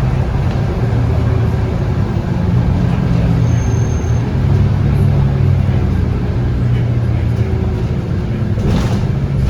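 Interior running noise of a Scania K230UB bus under way: its 8.9-litre five-cylinder Scania DC9 diesel pulling through a ZF Ecomat automatic, with road noise. A short high tone sounds about three and a half seconds in, and a brief hiss comes near the end.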